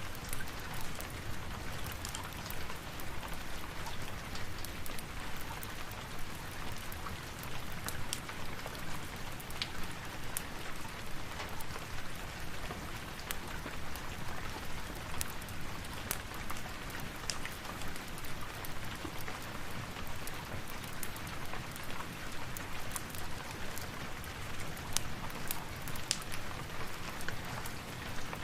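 Steady rain falling, with many small sharp ticks and crackles scattered through it.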